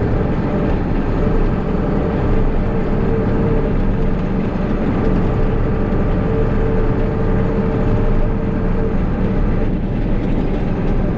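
Engine of the farm vehicle pulling a manure spreader, running steadily under load while spreading. A steady tone runs through the sound and stops about nine seconds in.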